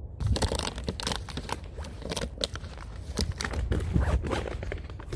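Dense, irregular crackling and crunching over a steady low rumble.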